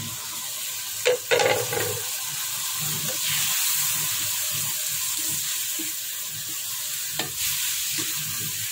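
Hot oil sizzling in a karahi as chopped tomatoes and green chillies are tipped in onto browned onions and ginger-garlic paste, then stirred with a wooden spoon. There are sharp clatters about a second in and again near the end.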